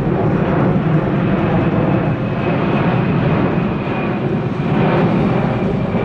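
Boeing C-17 Globemaster III's four turbofan engines in flight: a loud, steady jet roar. A thin high whine joins it about two seconds in.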